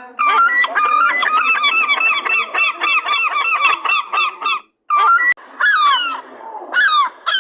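A flock of gulls calling loudly over one another in quick repeated calls. After a short break about two-thirds of the way in, the calls come more slowly, each one falling in pitch.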